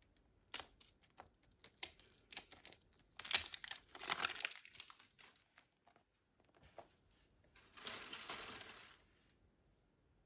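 Plastic packaging of a toy surprise egg crinkling and tearing as it is unwrapped: scattered clicks and rustles for the first few seconds, then a longer rustle near the end.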